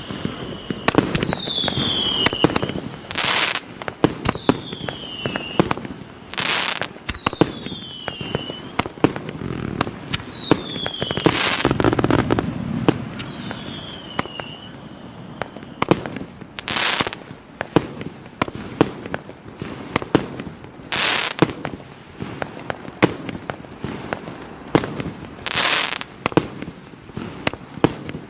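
A 137-shot consumer fireworks cake of 1–1.2 inch calibre firing a rapid run of launch pops and bursts. Several whistles fall in pitch over the first half, and a louder, longer burst comes every few seconds.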